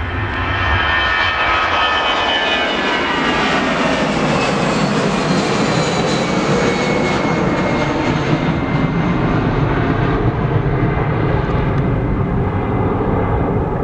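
Jet airliner passing close by with its engines running: a loud, dense rush of engine noise carrying several high whining tones that slide steadily down in pitch as the aircraft goes past.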